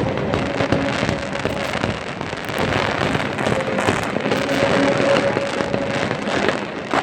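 Fireworks bursting and crackling in quick, dense succession, a continuous mass of pops and crackle.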